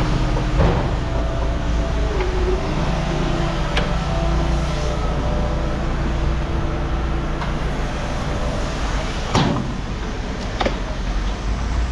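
Vehicle engine running steadily, with a few sharp knocks and rattles.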